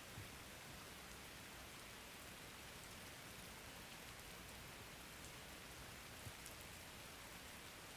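Steady rain falling: a soft, even hiss, with two faint dull thumps, one just after the start and one about three-quarters of the way through.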